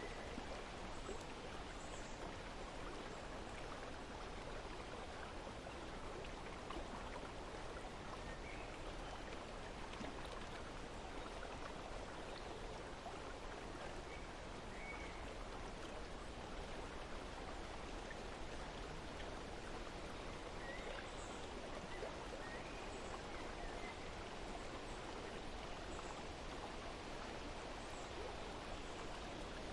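Steady running water of a stream, with faint, brief bird chirps scattered throughout.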